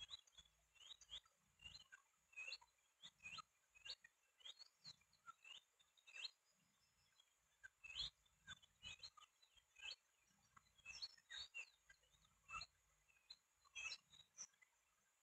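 Faint, high bird chirps, short and irregular, several a second, with scattered soft clicks between them.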